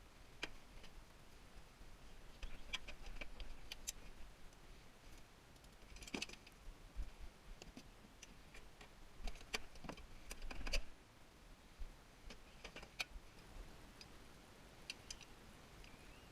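Irregular light clicks and metallic clinks of parts and hand tools being handled while a tankless water heater is taken apart, some in quick clusters of a few taps.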